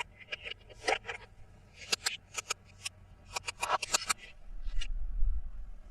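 Hands handling plastic toy pieces and packaging in an unboxing: irregular sharp clicks and short rustles, with a low rumble about four and a half seconds in.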